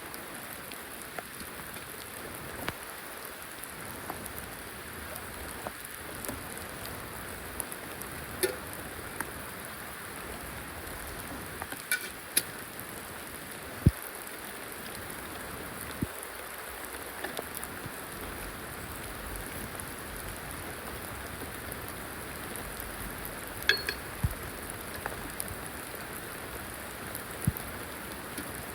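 Steady rain falling, with scattered louder drops and sharp taps standing out; the loudest come about twelve, fourteen and twenty-four seconds in.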